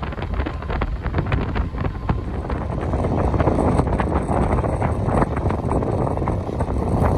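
A train running at speed, heard from an open coach window: wind buffets the microphone over a low rolling rumble, and the wheels click rapidly over rail joints and points. The wind rush grows louder about two and a half seconds in.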